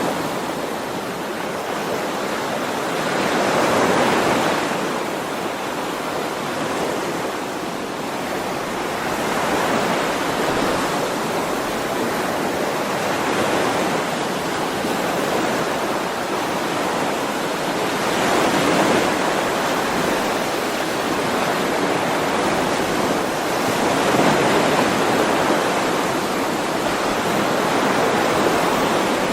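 Ocean waves washing onto a shore, a steady surf that swells and recedes every several seconds.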